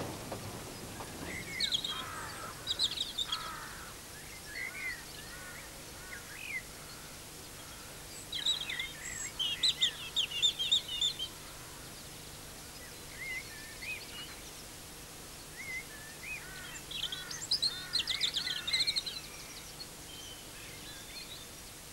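A songbird singing in three bouts of quick chirps and trills, separated by pauses. A low rumble dies away in the first second.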